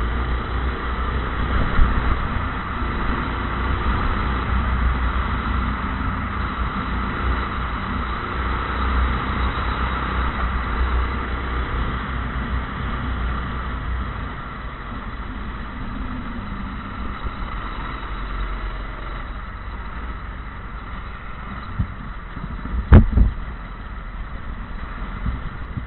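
Go-kart engine running steadily, its sound slowly fading, with a short burst of sharp loud knocks about three seconds before the end.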